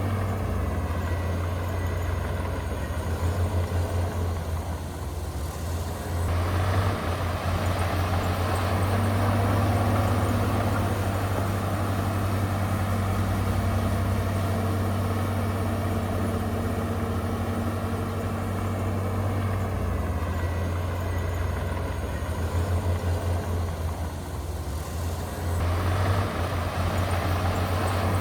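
Heavy earthmoving machine's diesel engine running steadily, easing off briefly twice and then pulling hard again as it takes up load.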